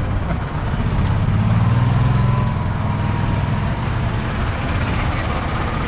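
Small buggy car's engine running steadily while the vehicle drives along, the low hum swelling for a couple of seconds about a second in.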